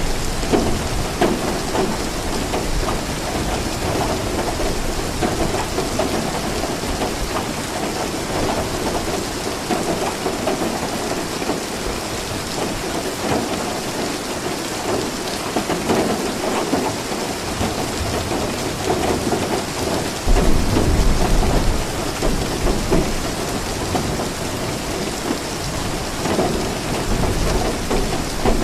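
Steady rain falling, with thunder rumbling in the background; a louder, deep roll of thunder breaks in about two-thirds of the way through.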